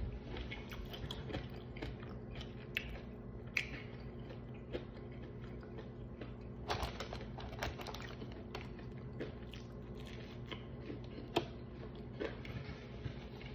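A person chewing a mouthful of food with the mouth closed, with small irregular crackles and clicks, over a steady low hum.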